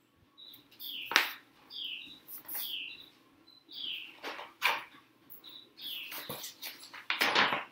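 A bird chirping over and over, each call a short high note followed by a note that slides downward, with a few brief rustling noises in between.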